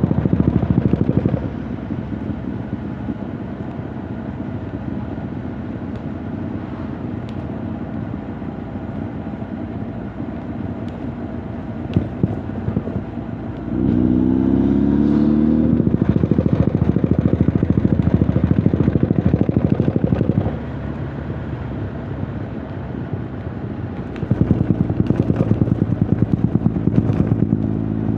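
Honda CB1300 Super Bol d'Or's inline-four engine and exhaust while riding. The throttle eases off after about a second to a steady, quieter cruise. About halfway the revs climb quickly under acceleration and it runs louder for several seconds, backs off again, then picks up once more near the end.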